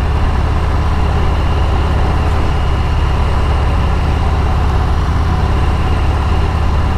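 Steady engine and road noise inside the cab of a truck moving at speed, a continuous low rumble with tyre hiss.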